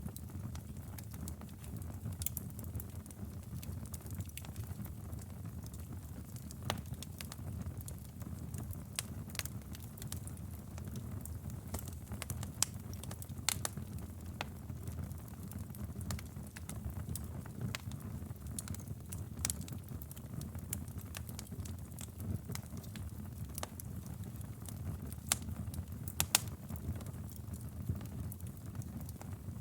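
Wood fire burning in a fireplace: a steady low rumble of flames with irregular sharp crackles and pops, a few louder pops in the second half.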